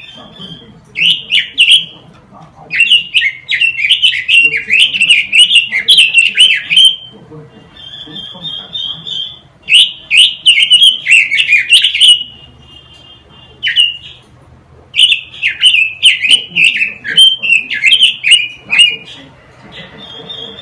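A quế lâm songbird singing loud, rapid warbling phrases in bursts of one to four seconds, separated by short pauses filled with thin, even trills.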